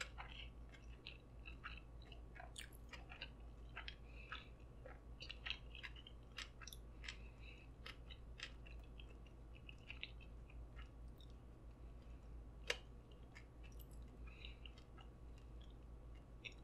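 Soft, close-miked chewing of a mouthful of sushi, with many small wet clicks of the mouth and one sharper click about three-quarters of the way through.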